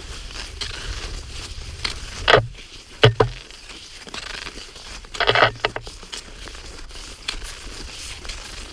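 Cross-country skis crunching and scraping along a groomed snow track. There is a steady crackle, with three louder scrapes at about two, three and five seconds in.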